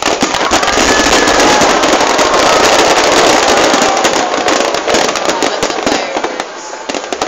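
Fireworks display: a dense, loud barrage of crackling and popping from glittering aerial bursts, which thins out after about six seconds.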